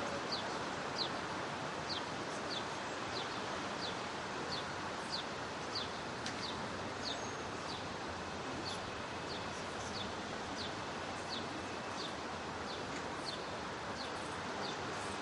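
A bird repeats a short, falling chirp at an even pace, a little under twice a second, over a steady outdoor hiss.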